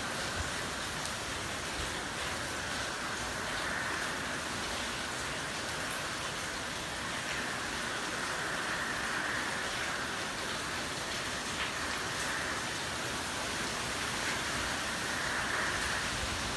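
Heavy hurricane rain falling steadily, a constant hiss that swells and eases every few seconds.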